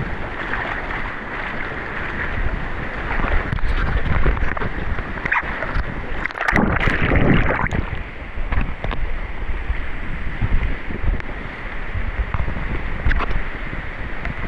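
Rushing waterfall water, a dense steady roar of fast current, with low rumbling buffeting on the microphone. It swells louder for a couple of seconds about six seconds in.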